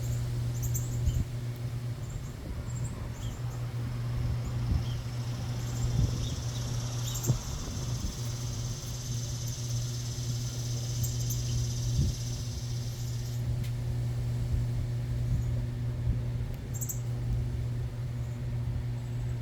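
Small backyard birds giving short, high chirps scattered through, over a steady low hum. A steady high buzz starts about four seconds in and cuts off suddenly about two-thirds of the way through.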